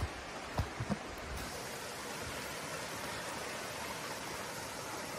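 Mountain stream running, a steady rush of water, with a few soft knocks in the first second.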